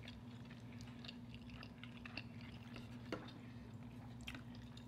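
Quiet close-miked chewing and soft mouth clicks of people eating fried fish, over a steady low hum.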